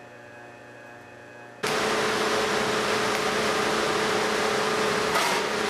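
A Ford 351 Windsor small-block V8 crate engine with an Edelbrock 750 carburetor, running on an engine dyno. It comes in suddenly after about a second and a half of quiet room tone and then runs loud and steady.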